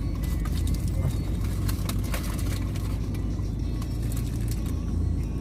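Steady low rumble of a car heard from inside its cabin, with a few light clicks and rustles about a second or two in.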